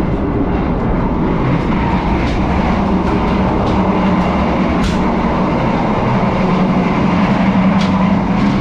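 Passenger train running at speed, heard from inside the carriages: a steady loud rumble and rattle with a low hum, and a few sharp clicks about halfway through and near the end.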